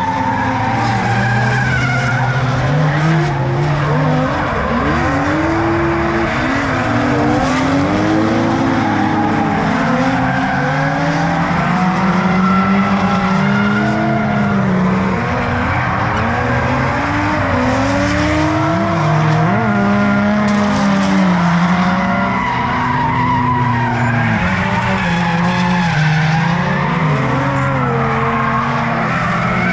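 Several drift cars running in a group, their engines revving up and down in overlapping rises and falls as the drivers work the throttle, with tyres squealing and skidding.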